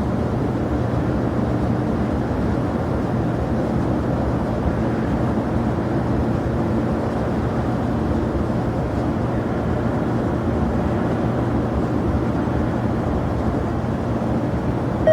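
Jet aircraft engines running steadily: a continuous noise with a constant low hum and no change in pitch.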